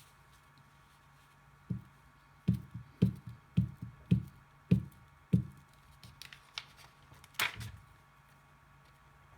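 A run of about eight dull knocks or taps on a tabletop over roughly four seconds, then one brighter, sharper scrape or rustle near the end, from hands handling and pressing paper while gluing.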